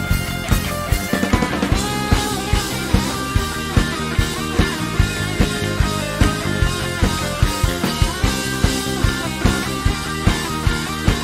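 Live worship band playing an instrumental break in a rock style, with electric guitar, bass and a drum kit keeping a steady beat.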